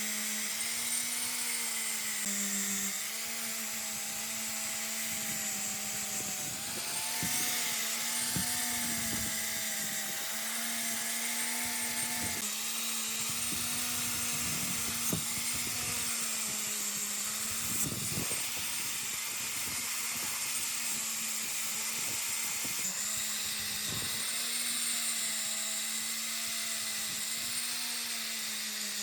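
A small electric power tool motor running steadily throughout, its pitch wavering slightly as the work loads it. Faint scrapes and knocks of the workpiece come now and then.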